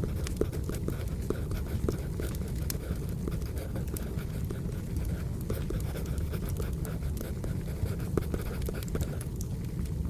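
Wood fire crackling with steady low rumble and scattered sharp pops, mixed with a pencil scratching on paper.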